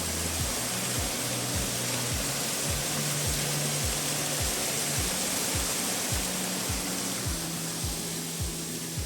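Small waterfall rushing steadily, with background music over it: a low bass line and a steady beat.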